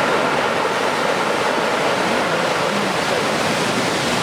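Heavy surf from a large typhoon swell breaking continuously on the beach, a steady, unbroken rush of water noise.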